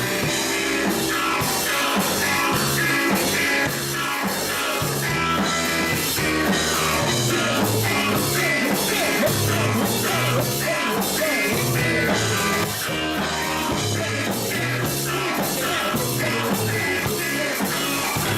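Rock music with drum kit and electric guitar, with singing, played at a steady loud level.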